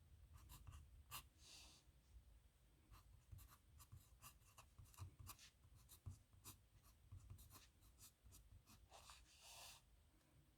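Pen scratching faintly on paper in a run of short strokes, with two longer drawn strokes, one near the start and one near the end.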